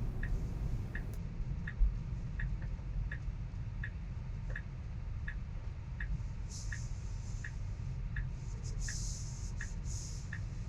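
Tesla turn-signal indicator ticking steadily inside the car's cabin, about three ticks every two seconds, over a low road rumble. Bursts of hiss come in during the second half.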